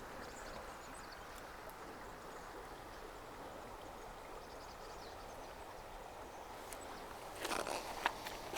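Faint, steady rush of a mountain stream's flowing water. About seven and a half seconds in there is a brief cluster of sharp clicks and rustling.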